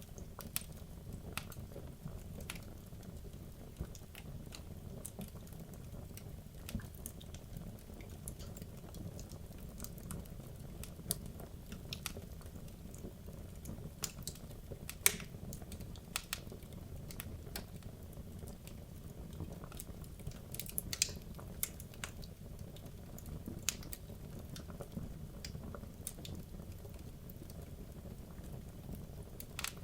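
Wood logs burning in a fireplace: a low steady rumble of flame with frequent irregular sharp crackles and pops, a few louder pops about halfway through and again a little later.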